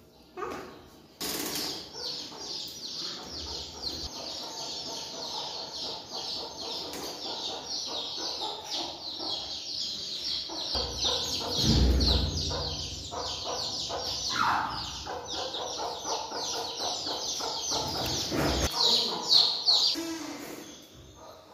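Small birds chirping in a dense, rapid chatter of high notes that starts suddenly about a second in and stops abruptly near the end.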